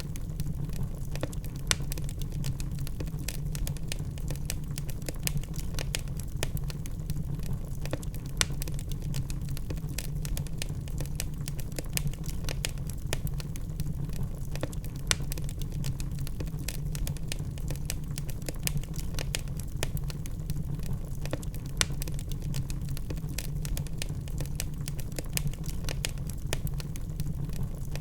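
Wood fire burning in a fireplace: many sharp crackles and occasional louder pops from the logs over a steady low rumble of the flames.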